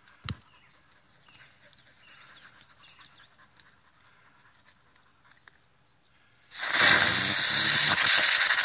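A small ground firework, such as a spinner or fountain, is lit and sprays sparks with a loud, steady hiss that starts suddenly near the end. Before it there is only a faint background with one short knock at the very start.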